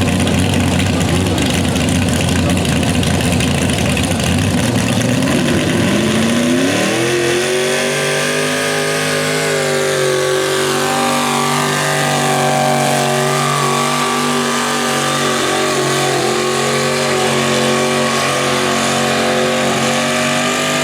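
Competition pulling tractor's engine running loud, revving up about six seconds in and then held at high revs under load during a pull.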